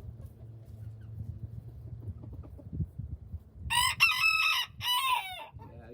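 A rooster crowing once, about two thirds of the way in: one loud cock-a-doodle-doo in two parts, the last part dropping in pitch.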